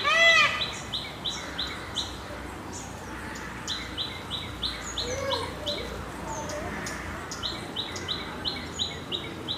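A small bird chirping in quick runs of short high notes, about three a second, with pauses between runs; other birds warble briefly in the background. At the very start, a loud repeated call with several overtones ends about half a second in.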